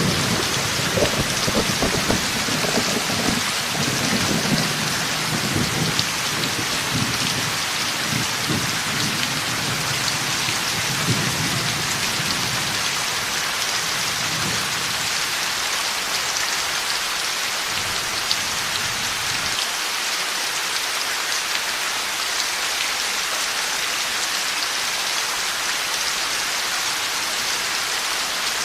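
Heavy rain falling steadily, with rolling thunder rumbling through the first half that dies away, leaving only the rain.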